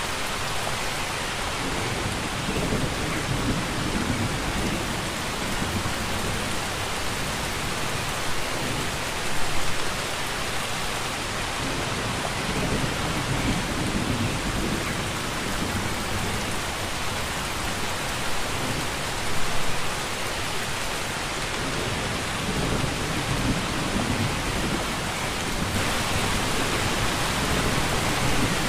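Steady, dense rainfall pouring down, with a few short, low rumbles swelling up now and then. The hiss grows a little louder near the end.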